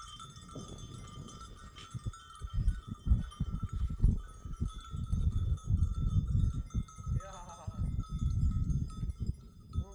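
Herd animals' bells ringing while a sheep or goat bleats about seven and a half seconds in and again at the end. Irregular low buffeting on the microphone is the loudest sound.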